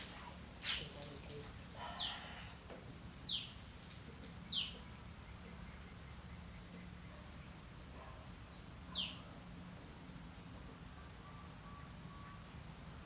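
A bird chirping now and then: short, high calls that drop in pitch, three about a second apart and one more several seconds later. A faint steady hum runs underneath.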